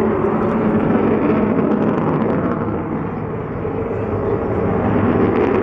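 Avro Vulcan XH558's four Rolls-Royce Olympus turbojets running as the bomber flies its display, a steady jet noise that dips briefly a little past the middle before building again.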